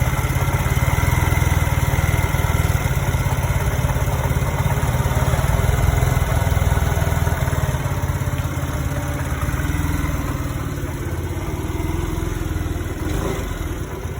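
Piaggio Vespa 125cc scooter engine idling steadily, easing slightly quieter over the last few seconds.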